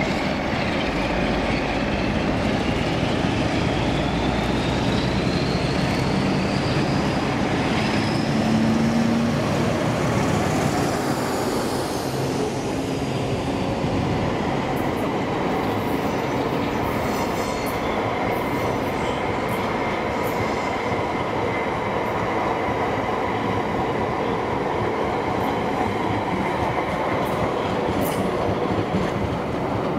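A train running through the station, with a high whine that rises steadily in pitch over the first several seconds. From about halfway it settles into steadier high tones, with scattered sharp clicks.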